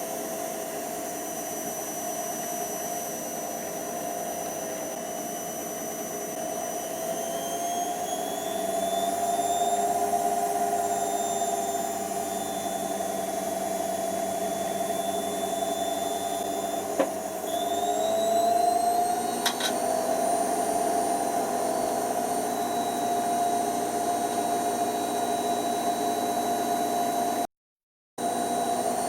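Hoover Nextra HNWL7146 washer dryer spinning at high speed: a steady motor whine that steps up in pitch about seven seconds in and again about eighteen seconds in, with a single click just before the second rise.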